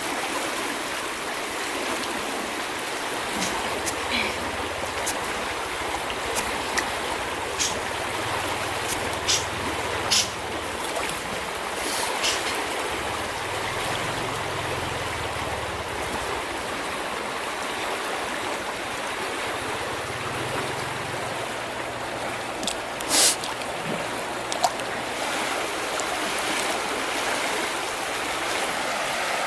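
River water flowing: a steady rushing with a few short sharp clicks scattered through it, the loudest about two thirds of the way in.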